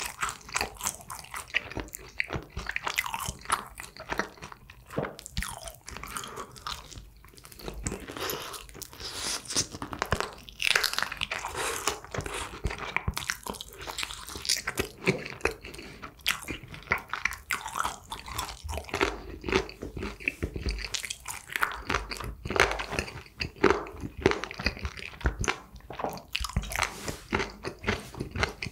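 Crunchy Kyochon Honey Combo fried chicken being bitten off the bone and chewed, with many crunches in quick succession.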